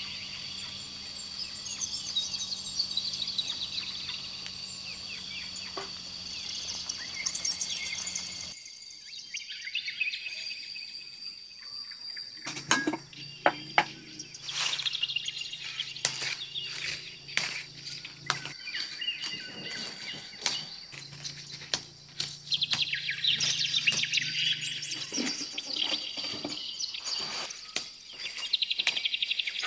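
Birds chirping over a steady high insect drone, with a run of sharp clicks and knocks through the middle.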